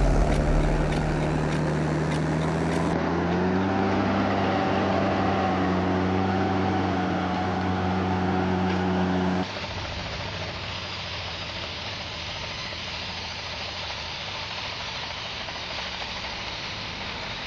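Heavy truck engine running under load, its pitch stepping up a little about three seconds in. After about nine seconds it cuts off abruptly and gives way to a quieter, steady rushing noise.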